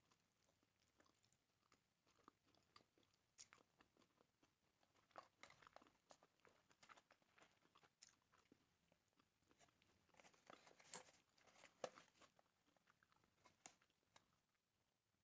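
Faint close-up chewing and biting of grilled chicken: a run of small wet mouth clicks and crunches, busiest about ten to twelve seconds in.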